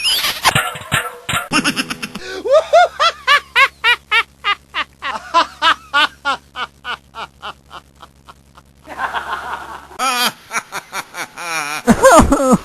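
A comic laughing sound effect: a long run of quick, repeated laugh syllables, about three a second, that trails off, followed near the end by further short sound effects.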